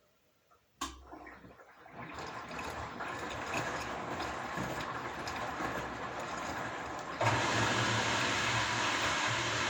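Washing machine switching on with a click under a second in, then a steady rush of water through the machine with a low hum, which grows louder and steps up again about seven seconds in.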